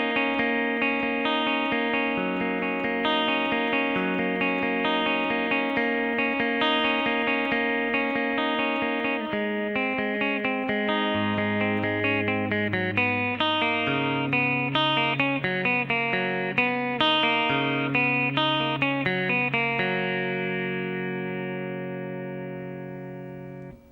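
Clean electric guitar picked note by note in arpeggios outlining B minor, G and A chords. The last chord is left to ring and fades away near the end.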